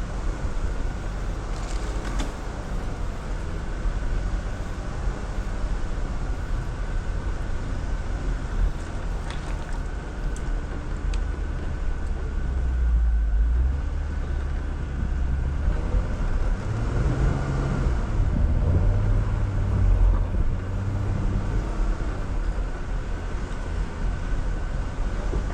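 Jeep Wrangler crawling over an off-road trail, its engine running steadily with a low rumble; the engine pulls harder, rising in pitch, about halfway through and again in the second half. A few faint clicks sound over it.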